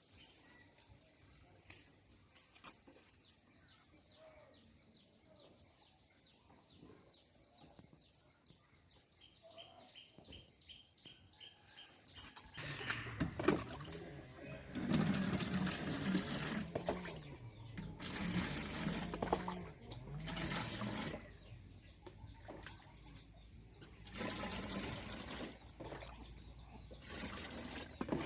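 Water gushing in several long, loud stretches, starting and stopping, from about halfway in. Before that, a quiet spell with faint, quickly repeated chirping.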